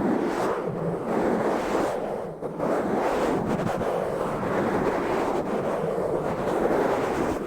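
Fast, rough scratching and rubbing directly on an uncovered microphone: a continuous, dense rushing noise with a brief dip about two and a half seconds in.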